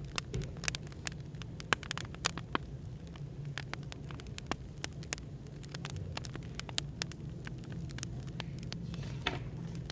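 Firewood crackling in a fire, with irregular sharp pops and clicks, over a steady low hum of café background noise.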